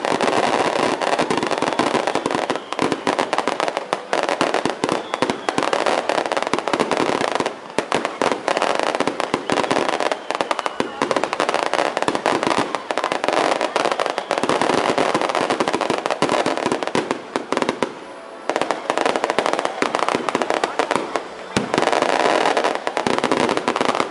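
A long string of firecrackers going off in rapid, continuous crackling, with a few short breaks.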